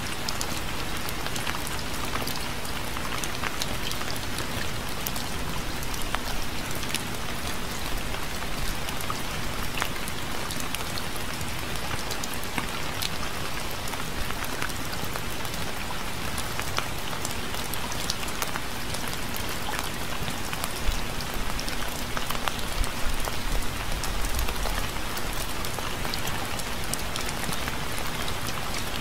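Steady rain falling on a surface, with many individual drops ticking through it, and a brief low rumble about three-quarters of the way through.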